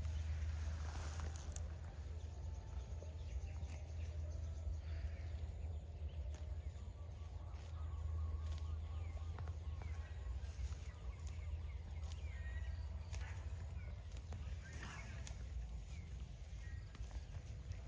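Outdoor rural ambience: a steady low rumble, with faint scattered chirps and a few light clicks.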